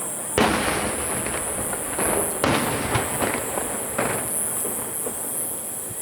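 Aerial fireworks shells bursting: a loud bang about half a second in, further bursts about two and a half and four seconds in, with crackling in between.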